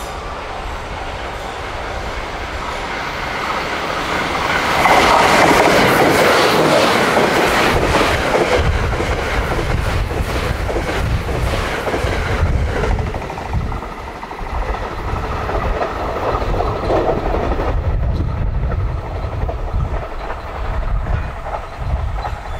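JR West Thunderbird limited-express electric train approaching and passing at speed. The noise builds to its loudest about five seconds in, then carries on as a low rumble with wheels clacking over rail joints as the cars go by.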